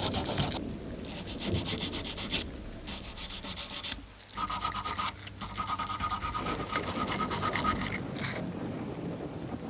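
Sandpaper rubbed back and forth by hand in rapid, even strokes, a dry scratchy rasping. Near the end the rubbing stops and a duller, steady background noise is left.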